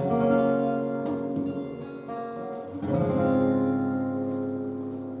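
Acoustic guitar intro: a chord strummed at the start and another about three seconds in, each left to ring out and fade.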